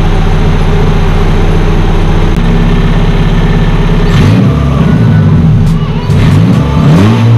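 Turbocharged four-cylinder engine of a 1997 Honda Civic running warmed up at a steady idle, then from about four seconds in the revs rise and fall several times as the throttle is blipped.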